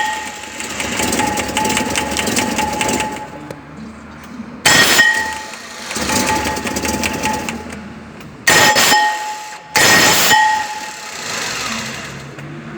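Starter on a Toyota Land Cruiser 4.5 engaging as the engine is started, with a steady high whine and short loud harsh bursts about five, eight and a half and ten seconds in. The noise comes from a starter bendix (drive pinion) that is not the original part for the vehicle.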